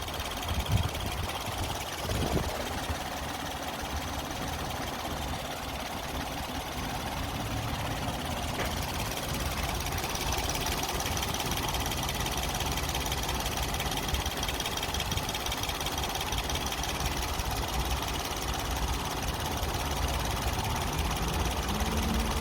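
Nissan Pixo's 1.0-litre three-cylinder petrol engine idling roughly, running steadily, with two short knocks in the first few seconds.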